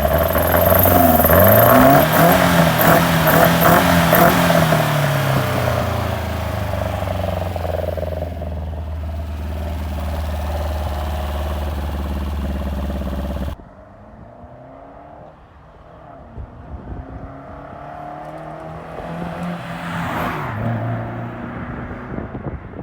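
Lotus twin cam four-cylinder engine revving up, holding its revs, then easing back to a steady run. About two-thirds of the way through the sound drops suddenly to a quieter engine note that rises and falls again near the end.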